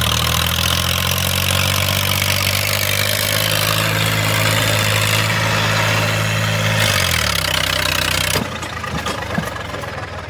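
Eicher 333 diesel tractor engine held at high revs, loud and steady. About seven seconds in the revs drop, and about a second later the loud rush cuts off, leaving the engine running much quieter and rougher.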